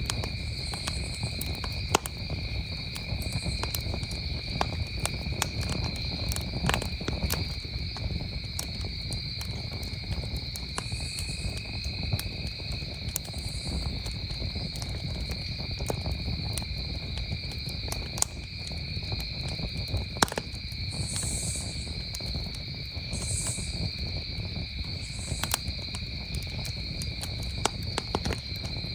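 Campfire crackling with scattered sharp pops over a steady chorus of crickets trilling at two pitches. A few short, very high chirps come in about two-thirds of the way through.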